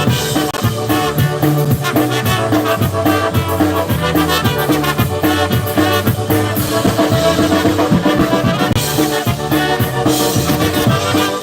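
Polka band playing an instrumental passage, with brass horns over a steady beat.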